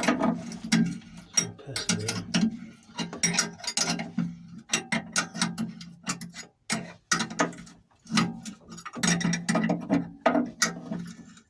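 Ratchet socket wrench clicking in quick, irregular runs with short pauses as the narrowboat's engine mount nuts are tightened.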